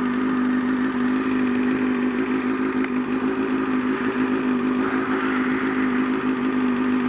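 Motorcycle engine running at a steady pitch while the bike is ridden, a steady drone.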